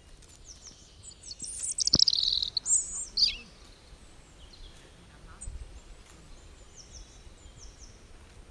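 A songbird singing: a quick run of high, falling, sweeping notes about a second and a half in, then fainter repeated notes later on, over a soft outdoor background.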